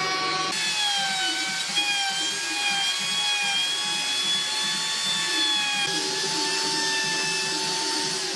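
A power tool's motor running at high speed with a steady whine whose pitch wavers slightly under load. The sound changes abruptly about half a second in and again about six seconds in.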